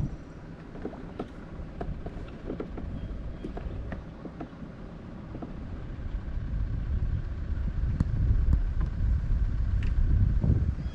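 Wind rumbling on the microphone, building up and loudest near the end, with scattered light clicks and knocks from the kayak and gear.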